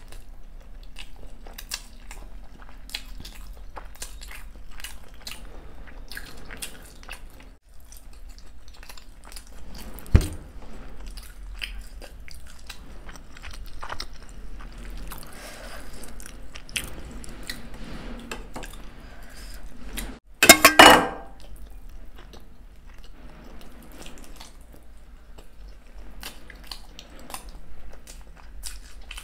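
Close-miked chewing and crunching of dahi golgappa, the crisp puri shells cracking between wet bites, with many small clicks of the mouth. A sharp knock sounds about ten seconds in, and a louder burst of noise lasting about a second comes about two-thirds of the way through.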